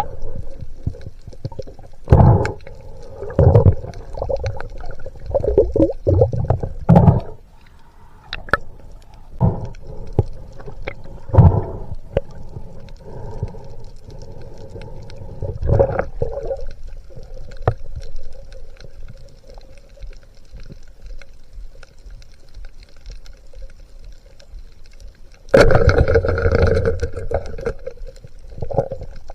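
Muffled underwater water noise: irregular knocks and gurgles, then a louder rush of water or bubbles lasting a couple of seconds near the end.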